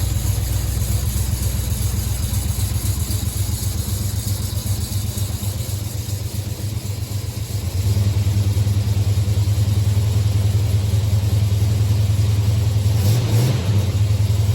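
1972 Plymouth Road Runner's 383 V8 idling steadily, getting louder about eight seconds in.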